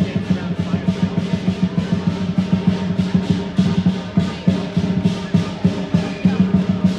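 Lion dance percussion: a big Chinese lion drum pounding with crashing cymbals and gong in a fast, steady beat of several strokes a second.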